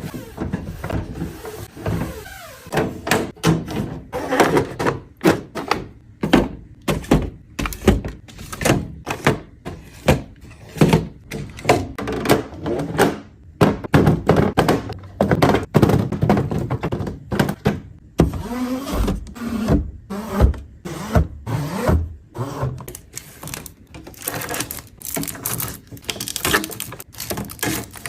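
Many irregular knocks, taps and clatter of food containers and packaging being handled and set down, one after another.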